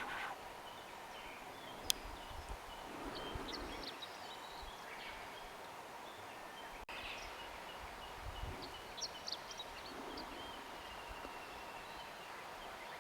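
Steady outdoor background with scattered short, high bird chirps in two brief clusters, plus a single sharp click about two seconds in.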